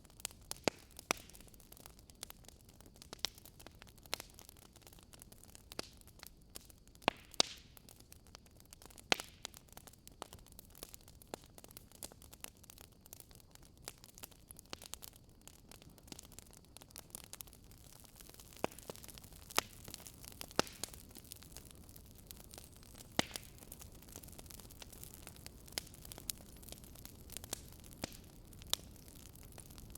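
Wood campfire crackling: irregular sharp pops and snaps, a few loud ones standing out every few seconds over a soft hiss of burning.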